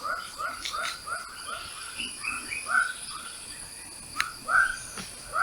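Wild animal calls: a rapid series of short, evenly repeated calls, about three a second, over a steady high-pitched insect drone.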